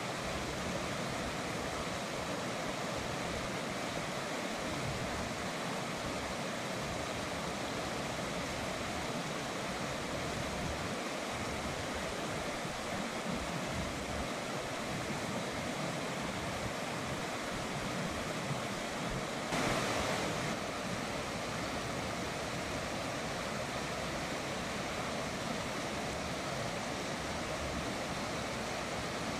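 River water flowing in a steady, even wash with no distinct splashes, swelling briefly louder for about a second around twenty seconds in.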